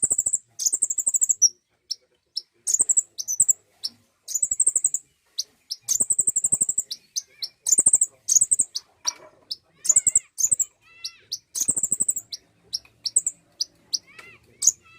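Konin bird singing in a lure recording meant to set other konin birds singing: rapid high-pitched trills and sharp chips in repeated bursts, each about half a second to a second long, with short gaps between them. Fainter, lower warbling notes come in over the second half.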